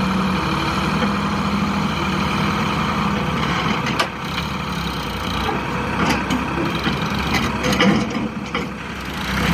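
A tractor engine idling steadily, with a sharp knock about four seconds in and scattered knocks and clatter after it.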